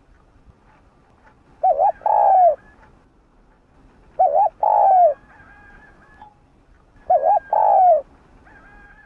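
Spotted dove cooing: three phrases a few seconds apart, each a short quick double note followed by a longer falling coo.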